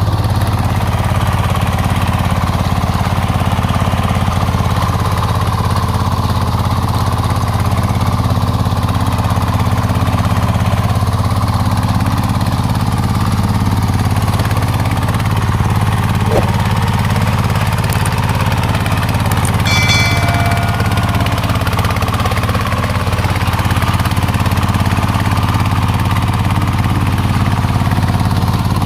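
Single-cylinder diesel engine of a Vietnamese 'công nông' farm truck running steadily at an even level, a heavy low chugging throughout. A brief high-pitched tone sounds about twenty seconds in.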